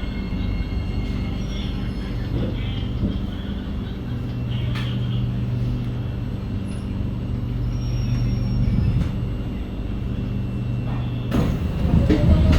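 Inside a C751B metro train running between stations: steady rumble of wheels on rail with a low traction-motor hum and faint steady whine tones. About eleven seconds in the noise gets louder and fuller.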